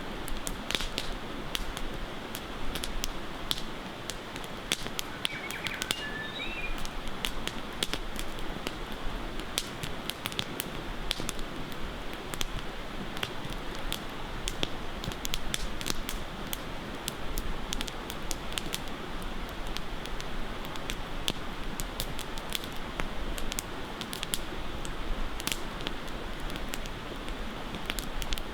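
Campfire crackling, with frequent sharp irregular pops over a steady rush of running water. A few short bird chirps come through about six seconds in.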